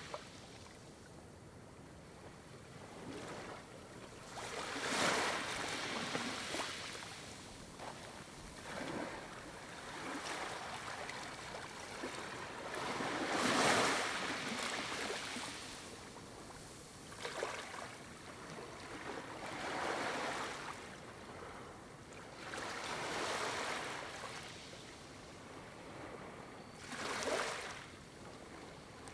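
Sea waves washing and rushing, swelling into surges every few seconds, with some wind.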